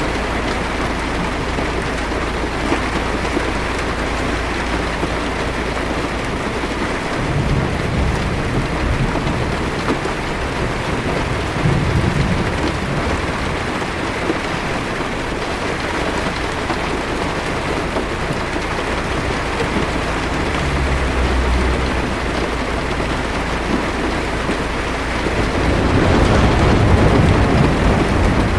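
Heavy rain beating on a car's windshield and roof in a steady hiss. Low rolls of thunder rumble under it several times, the loudest swelling near the end.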